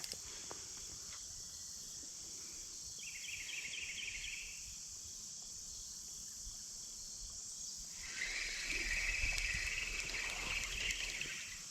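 Steady chorus of insects, typical of crickets in late summer and fall, with a shorter rattling trill lower in pitch about three seconds in and a longer one about eight seconds in.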